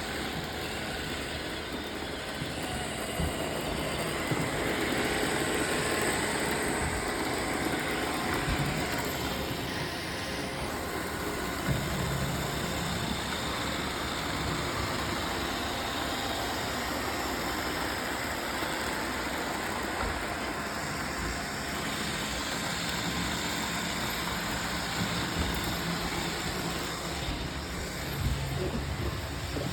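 Roomba robot vacuums running with a steady motor and brush whir, with a few light knocks along the way.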